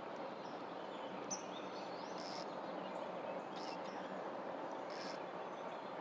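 Steady background hiss with small birds chirping faintly, and three short, high, hissy sounds about a second and a half apart.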